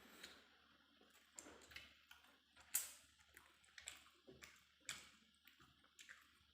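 Close-up eating sounds: soft, irregular mouth clicks and smacks of someone chewing, a few a second, the sharpest almost three seconds in.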